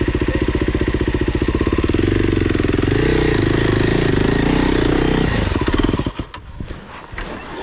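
Dirt bike's single-cylinder engine running with a steady putter, then opened up under load with a higher, shifting note for a few seconds, before cutting out abruptly about six seconds in.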